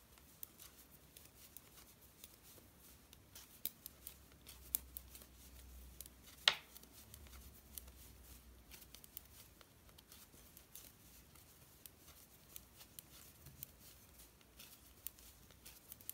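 Faint clicking and tapping of two knitting needles as stitches are worked, with one sharper click about six and a half seconds in.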